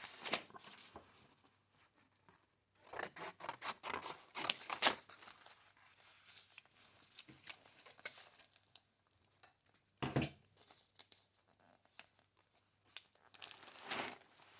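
Paper being cut with scissors: runs of quick snipping at the start, again about three seconds in, once briefly near ten seconds, and near the end.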